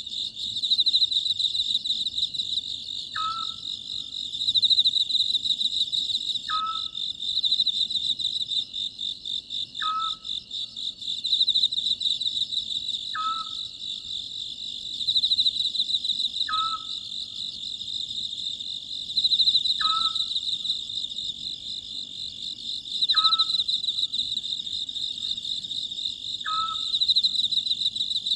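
Oriental scops owl calling its short two-note 'sot-jjeok' call at an even pace, about once every three and a half seconds, over a loud, steady chorus of chirring crickets and other insects.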